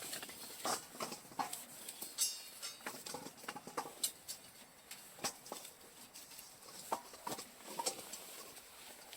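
Campfire crackling, with irregular sharp pops and snaps over a soft hiss.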